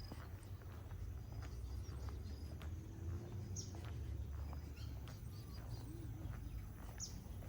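Birds calling: a short, high, falling chirp repeated every three to four seconds, with fainter high notes between, over a steady low rumble.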